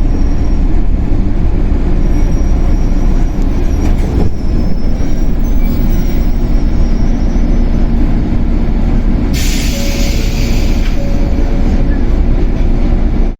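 Running sound of a Shinano Railway 115-series electric train, heard from inside the motor car KuMoHa 115-1013: a steady rumble of wheels and motors on the track. About nine and a half seconds in, a loud hiss lasts for a second and a half.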